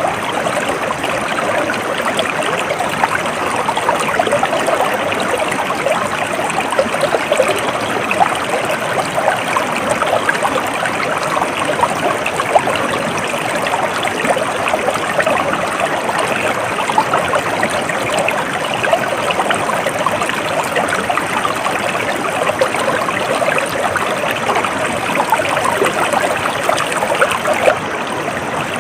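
A stream of water flowing and trickling steadily, a dense even splashing and babbling.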